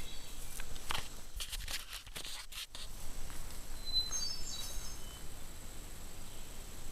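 A songbird singing a short phrase of brief, high notes about four seconds in, after a cluster of clicks and rustles.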